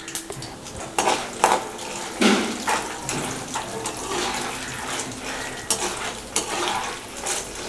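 Peanuts and dal frying in hot oil in a black iron kadai, with a steady sizzle, while a metal slotted spoon stirs them and scrapes and clinks against the pan several times.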